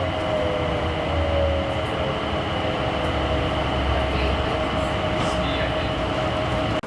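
Airport people-mover train running as it pulls into the station: a steady low rumble with a motor whine, parts of it gliding slightly lower. It cuts off suddenly near the end.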